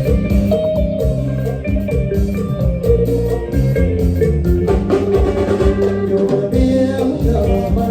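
Isan mor lam band playing a toei tune: a steady bass-and-drum beat under a plucked melody line.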